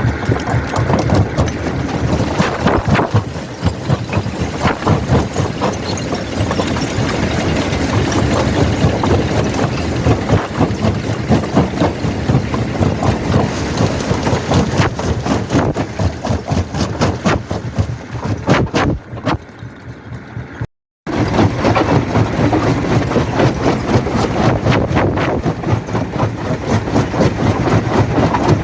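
Primary rock crusher, a jaw crusher, breaking stone: a dense, continuous clatter of cracks and knocks over the steady running of the machine. About two-thirds of the way through the sound thins out, cuts off for an instant and comes straight back at full level.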